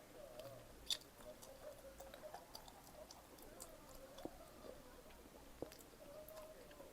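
Faint chewing of pizza, with a few small sharp mouth clicks, the loudest about a second in.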